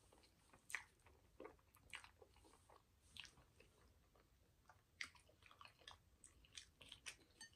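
Quiet chewing and wet mouth smacks of someone eating a mouthful of creamy fettuccine Alfredo, with scattered soft clicks at irregular intervals.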